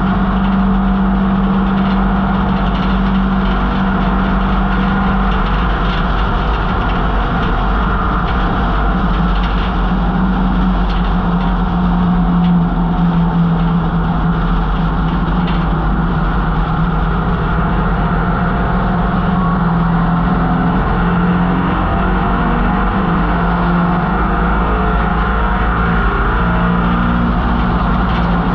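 1968 MGB GT's four-cylinder engine running hard at racing revs. It is loud and steady, and its pitch dips and climbs a few times as the revs change.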